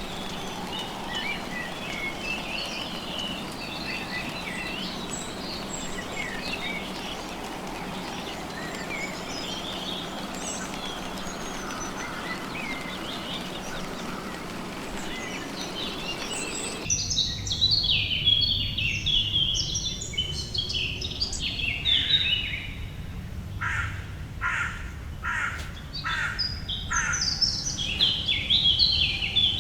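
Several birds chirping and calling over a steady background hiss. About halfway through the sound changes abruptly to louder, closer calls with falling whistled phrases and a run of short repeated notes, about two a second.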